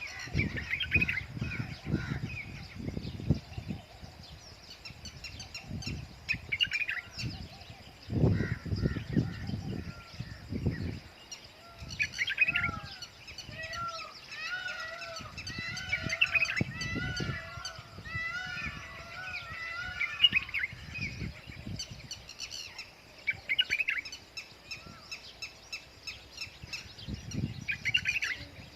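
Birds calling: many short chirps, and from about twelve seconds in a run of repeated short rising-and-falling calls. Under them is an irregular low rumble.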